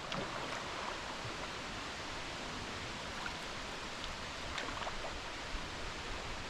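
River water running steadily around a drifting canoe, an even rushing noise with a few faint small splashes or drips.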